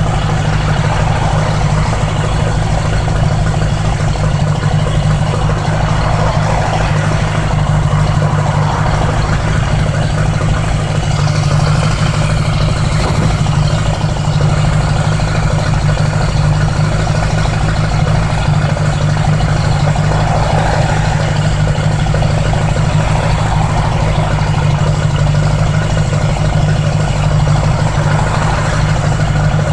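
1980s Honda Gold Wing motorcycle engine running steadily under way, with a steady rushing noise over it.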